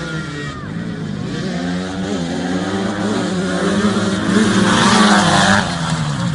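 Dirt bike engine revving, its pitch rising and falling with the throttle, loudest for about a second around four and a half seconds in.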